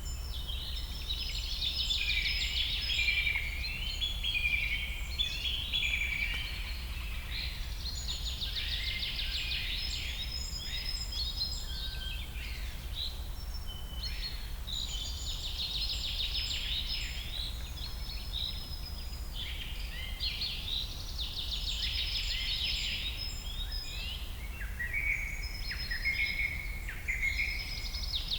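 A chorus of jungle birds singing and calling over one another: many quick chirps and rapid trills that swell and fade in waves every few seconds. A steady low rumble runs underneath.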